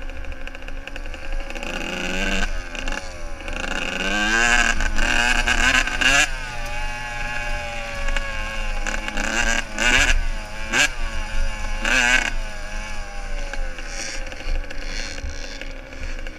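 Motocross bike engines revving hard, the pitch climbing and dropping again and again through gear changes and throttle blips, with more than one engine overlapping at times.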